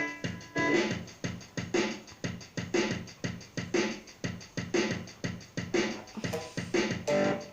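Guitar played in a steady rhythm of short, percussive strokes, each note dying away quickly.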